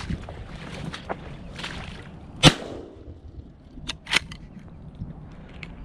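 A single shotgun shot about two and a half seconds in, over wind noise on the microphone, followed about a second and a half later by a couple of faint sharp clicks.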